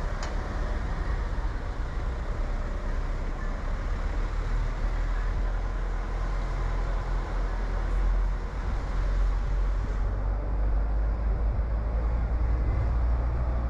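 A car driving on city roads: a steady low engine and road rumble with tyre noise. The hiss above it falls away about ten seconds in.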